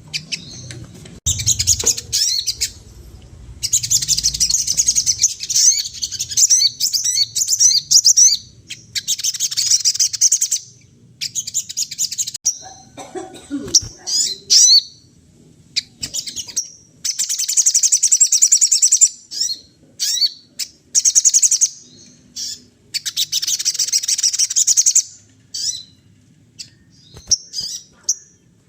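A sogon songbird singing in full, energetic form ('gacor'): long runs of rapid, high twittering phrases, each one to four seconds, with short pauses between. A brief lower, rougher sound comes about halfway through.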